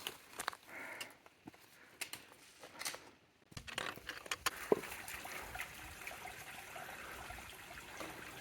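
Scattered footsteps and rustling on the trail, then, from about three and a half seconds in, the steady rush of a flowing creek.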